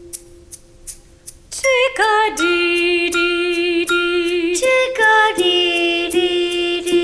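Children's song: a held low drone note with light ticks about three a second, then a woman's voice comes in singing about a second and a half in, with sliding, wavering notes.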